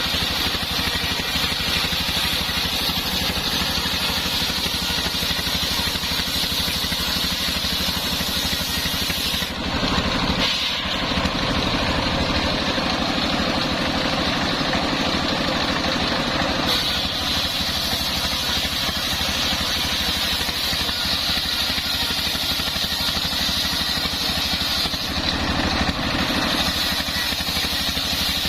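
Engine-driven homemade circular sawmill running steadily while sawing a coconut-palm log, the engine's drone under a high-pitched saw hum; the sound dips and shifts briefly about ten seconds in.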